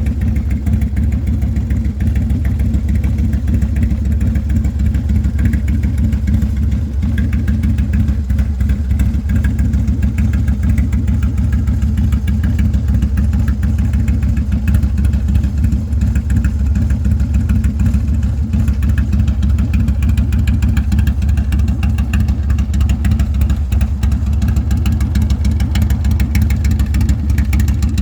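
Harley-Davidson Low Rider S's 110 cubic inch V-twin idling steadily through a Sawicki Speed two-into-one exhaust, its firing pulses even and deep.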